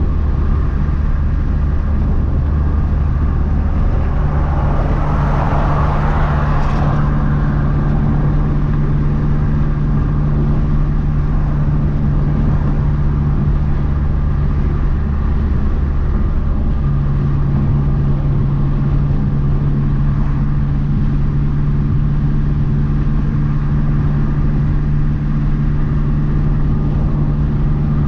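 Turbocharged 2.3-litre four-cylinder of a Mazdaspeed 3 running under way at fairly steady revs, with road noise. The engine note shifts about four seconds in and again around seventeen seconds, and a brief rushing swell rises and fades around five to seven seconds in.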